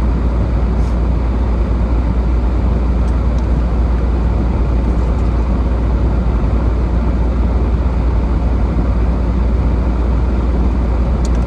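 A car driving on snowy roads: steady road and engine noise with a strong low rumble and no sudden events.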